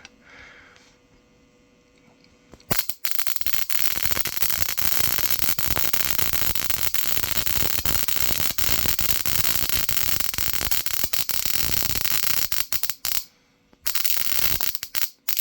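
High-voltage spark-gap rig crackling with rapid, dense sparking: a harsh run of many sharp clicks. It starts about three seconds in, cuts out briefly near the end, then resumes.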